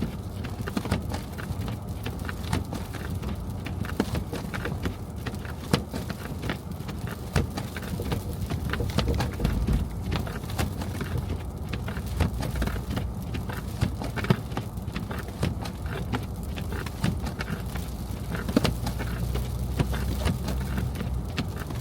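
Car driving in snow: a steady low rumble from the road and engine, with many small irregular clicks and knocks over it.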